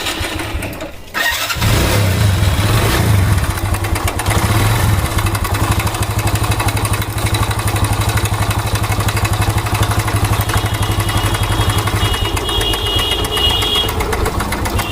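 Mahindra Centuro 110 motorcycle engine starting about a second in, revving briefly, then idling with a fast, even ticking rattle. This is the engine's bad noise, which the mechanic links to the timing chain and warns can end with the chain snapping and jamming inside the engine.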